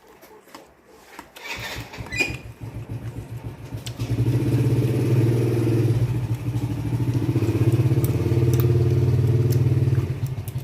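Small motorcycle engine running close by with a fast, even pulse. It builds up over the first few seconds, runs loud and steady, then drops back near the end.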